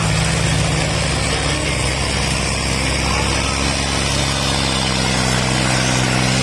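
Tractor's diesel engine running steadily, its pitch shifting slightly partway through.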